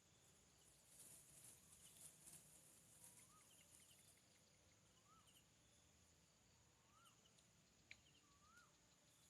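Near silence: faint outdoor ambience with a high hiss, in which a distant bird gives four short rising-and-falling calls about two seconds apart. There is one small sharp tick near the end.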